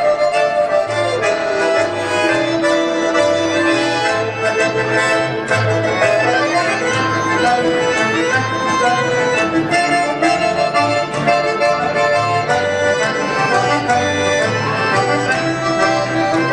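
Accordion playing an instrumental passage of the song's melody over a steady pulse of bass notes.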